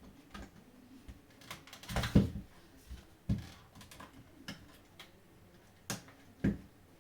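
Scattered small clicks and knocks of a PS5 DualSense controller's plastic shell and parts being handled during disassembly. A louder cluster comes about two seconds in, another knock a second later, and two sharp clicks near the end.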